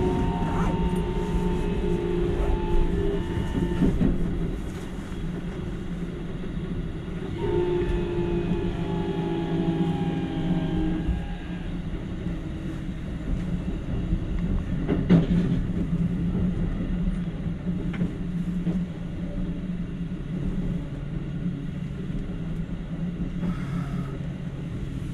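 Keikyu Main Line electric train running, heard from the driver's cab: a steady rumble of wheels on rail, with a whine that slowly falls in pitch twice and a single sharp clack about midway.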